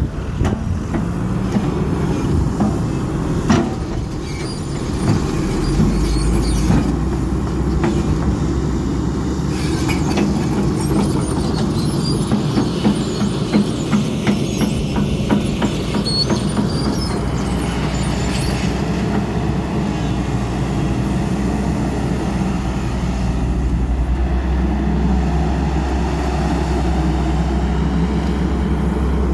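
The Cummins diesel engine of an XCMG 140 machine running steadily under a low hum. A few sharp knocks and metallic clatter come over it in the middle stretch.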